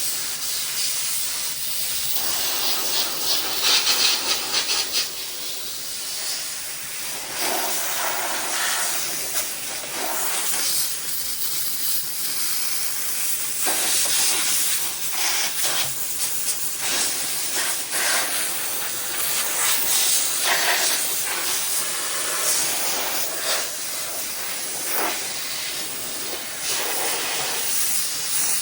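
Small handheld steam cleaner blasting steam with a loud hiss that swells and fades in uneven bursts, loudest about four seconds in.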